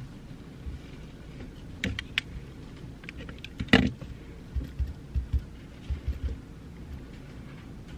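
Desk sounds of someone studying: soft low knocks and bumps against a desk and a few sharp clicks, the loudest click about halfway through.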